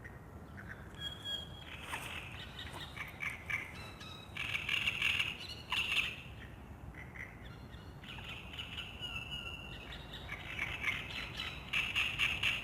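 Several wild birds singing and calling in short chirps and trills, with louder bursts of song around the middle and near the end, over a steady low background rumble.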